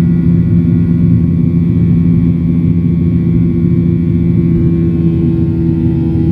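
Boeing 737-900ER's CFM56 jet engines running with a steady drone, made up of a low hum and several held tones.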